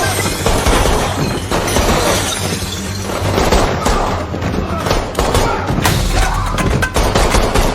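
Cinematic soundtrack: dramatic music with shattering and crashing sound effects layered over a low drone.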